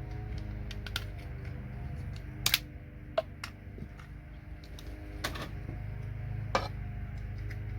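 Scattered sharp clicks and taps of a small plastic-cased electronic component being handled and picked apart by hand, over a steady low hum.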